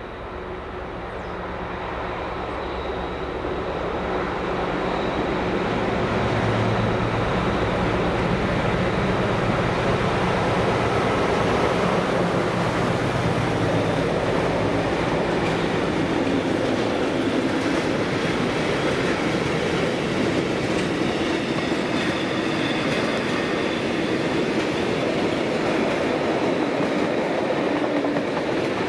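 A Class 60 diesel-electric freight locomotive's engine grows louder as the locomotive approaches and passes. A long rake of loaded bogie oil tank wagons then rolls by, its wheels rumbling and clattering steadily on the track.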